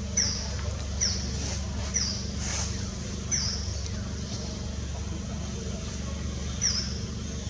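A bird repeating a short, high-pitched, falling chirp about once a second, pausing, then calling once more near the end, over a steady low rumble.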